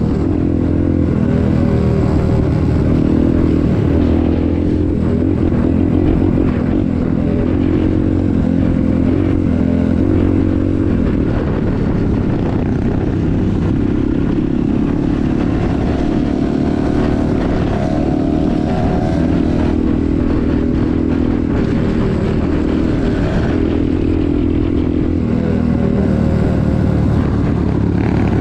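Vehicle engine running continuously under varying load, the revs rising and falling as it drives.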